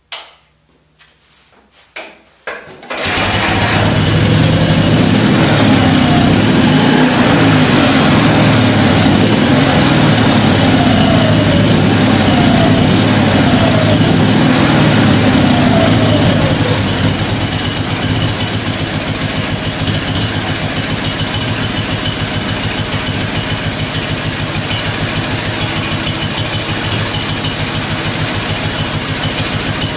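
1968 BMW R50 flat-twin motorcycle engine being kick-started: a few short knocks, then it catches about three seconds in. It runs a little louder at first, then settles into a quieter, steady idle about seventeen seconds in.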